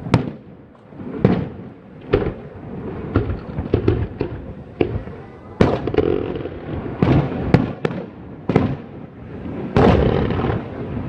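Fireworks going off: a string of sharp bangs at uneven intervals, each with a short rumbling echo, some close together and overlapping.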